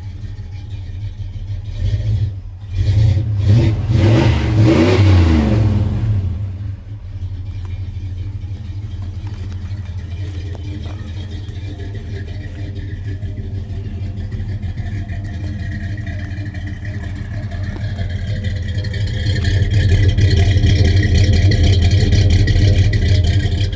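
1978 Ford F-250's engine running just after a cold start, idling low. A few seconds in it is revved up and let back down, and near the end it is held at a higher, steady speed.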